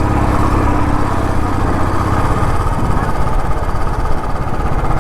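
Royal Enfield motorcycle engine running steadily under way, with a dense rushing noise over it.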